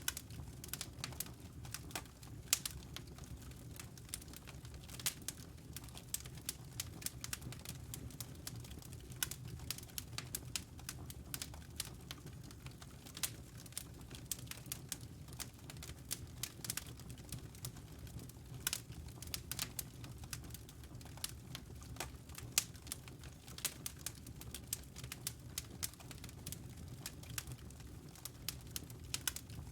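Wood fire in a fireplace crackling: irregular sharp pops and snaps, several a second, over a steady low background of the burning.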